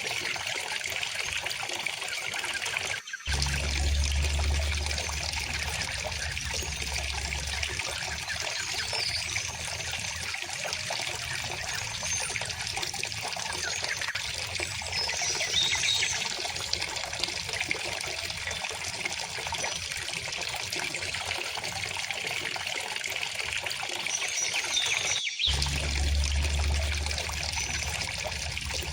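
River water flowing and trickling steadily, with a few faint bird chirps. The sound cuts out for an instant twice, about 3 seconds in and near the end, and a low rumble comes up after each cut.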